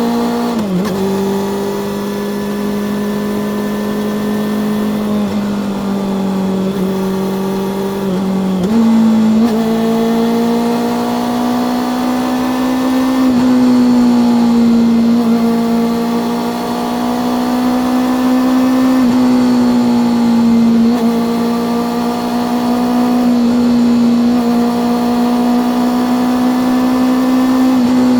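Honda CB400SF's inline-four engine and exhaust running under way. The engine note drops about a second in and climbs back up near nine seconds. After that it holds fairly steady, with brief small dips as the throttle eases and opens.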